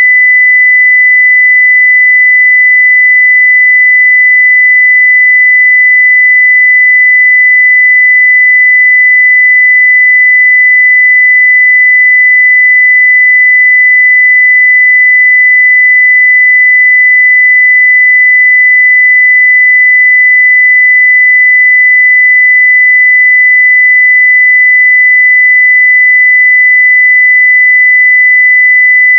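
Continuous 2 kHz sine-wave test tone at full scale (0 dB), one steady pure pitch with no change.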